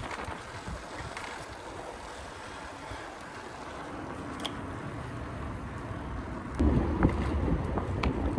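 Wind rushing over the microphone with road rumble while riding an electric bike, the buffeting growing louder about six and a half seconds in.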